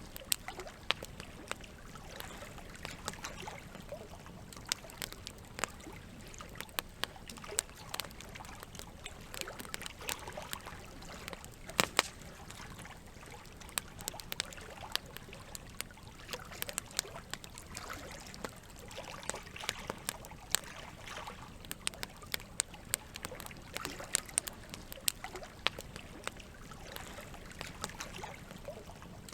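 Wood campfire crackling with frequent sharp, irregular pops, one louder pop about twelve seconds in, over a steady background of running water.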